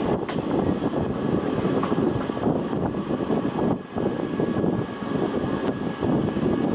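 Passing train: a steady loud rumble of wheels on the track, with a faint high steady tone and a few sharp clicks.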